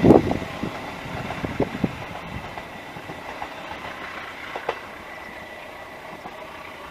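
Passenger train going past and moving away, wheels clacking over the rail joints. It is loud at the start, then fades within about a second to a low rumble with a few scattered clicks.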